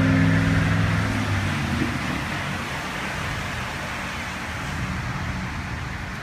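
Steady rush of heavy thunderstorm rain, with a vehicle engine's hum underneath that fades away about a second and a half in.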